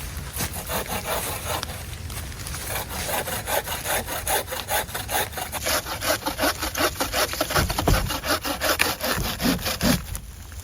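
Hand saw cutting through wood in quick, even back-and-forth strokes that stop near the end.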